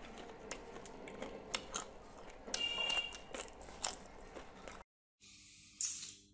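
Crisp crunching and chewing of fried dried chili peppers, with many sharp crackles, and a brief high squeak about two and a half seconds in. It cuts off near the end, followed by a short noisy swell.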